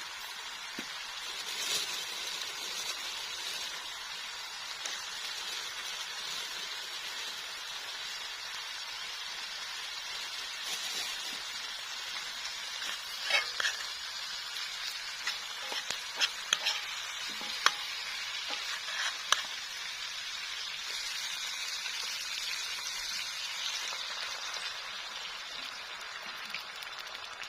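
Food sizzling in a pan, a steady hiss, with a few sharp clicks and taps of a utensil stirring against the pan in the middle.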